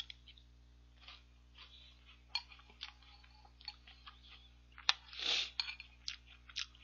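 A person chewing a mouthful of ice cream mixed with Jolly Pong puffed-wheat cereal close to the microphone: scattered small wet clicks and crunches, with a slightly longer, louder mouth noise about five seconds in.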